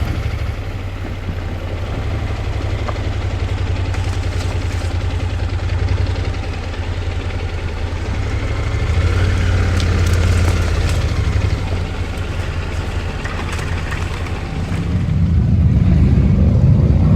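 Motorcycle engine running with a steady low drone, growing louder about nine seconds in and again near the end.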